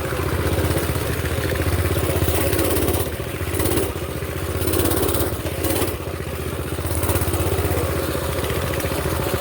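Small pull-start mini bike engine running, its revs rising and falling with the throttle.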